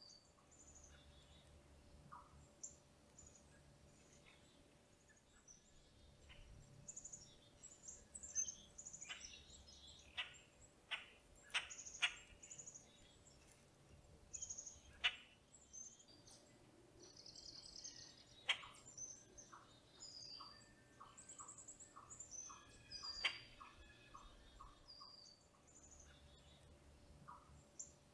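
Faint background birdsong: a mix of short high chirps and whistled notes, sharper calls clustered in the middle, and runs of short evenly spaced notes, a few a second, near the start and end.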